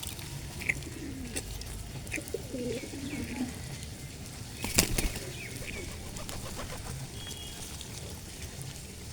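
Pigeons cooing in low, wavering calls, with short higher chirps from other birds. A single sharp click comes about five seconds in.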